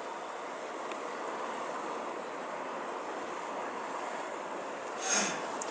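Blizzard wind blowing with a steady rushing noise, with a short louder rush about five seconds in.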